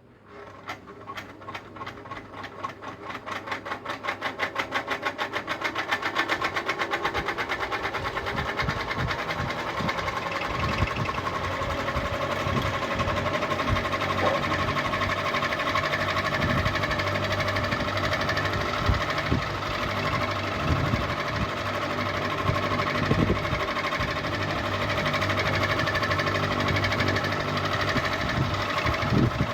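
Ceiling fan spinning up from a standstill: a rhythmic ticking that quickens and grows louder over the first several seconds, then runs steadily at full speed.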